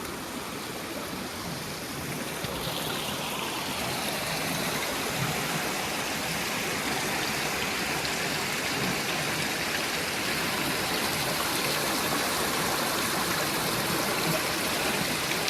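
Swollen, fast-moving creek rushing steadily over a small waterfall, running high after heavy rain, a little louder after the first few seconds.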